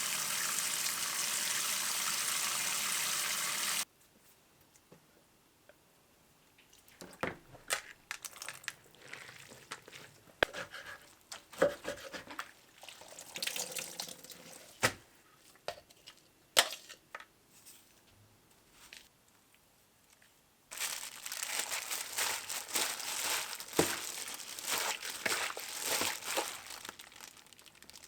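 Food-preparation handling sounds: a few seconds of steady rushing like running water that cuts off suddenly, then scattered clicks, crinkling and rustles, then a longer stretch of rushing with frequent clicks near the end.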